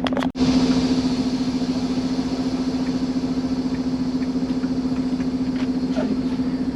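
Semi truck's diesel engine idling steadily, a constant low hum. A brief sharp click comes about a third of a second in, followed by a brighter hiss over the idle.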